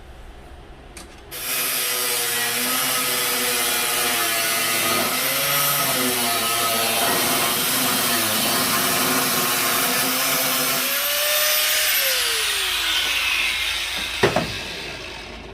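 Power tool, likely an angle grinder, running under load against the steel of a wood-stove body with a loud grinding hiss for about ten seconds, then released so its motor winds down with a falling whine. A sharp metal knock follows near the end.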